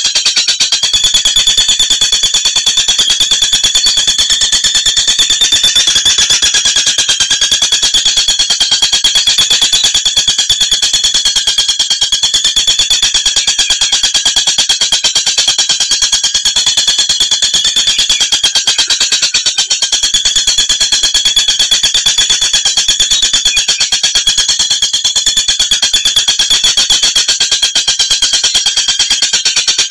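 Oriental magpie-robin (kacer) calling: a loud, very fast, high-pitched trill that runs on without a break.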